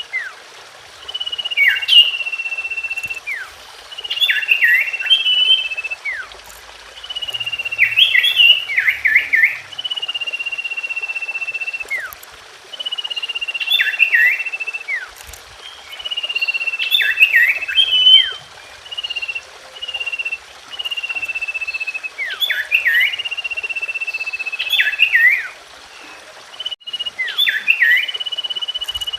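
Common iora (cipoh) singing: a long, steady, high whistle held for one to two seconds, then a quick run of sharp downward-sweeping notes. The phrase repeats every two to three seconds.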